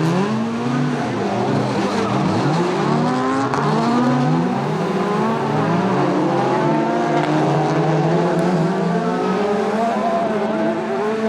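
Rallycross race cars at full throttle, several engines heard together, their pitch climbing and dropping again and again through gear shifts, then settling into a steadier, slowly rising note near the end.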